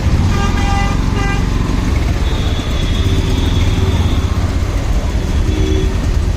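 Motorcycle riding in city traffic: steady engine, road and wind noise, with vehicle horns honking, two short honks about half a second and a second in, and further short horn tones later.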